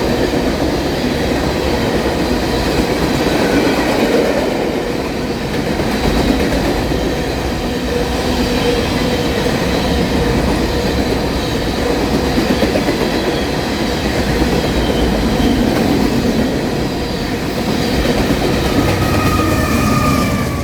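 Norfolk Southern freight train cars rolling past, steel wheels running steadily on the rails with a continuous loud rumble and clatter. A faint high wheel squeal runs throughout and grows stronger near the end.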